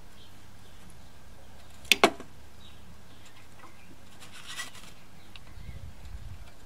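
Workshop handling noise: two sharp knocks in quick succession about two seconds in, then a brief hiss-like rustle a couple of seconds later.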